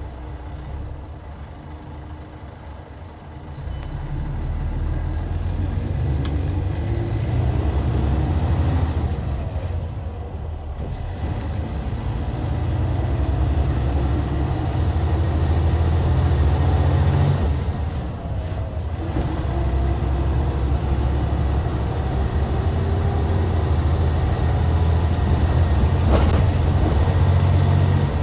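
Hyundai D6CC six-cylinder diesel of a Hyundai Universe bus running under load. Its sound swells about three seconds in, then drops away briefly twice, as it does at gear changes of the six-speed manual gearbox.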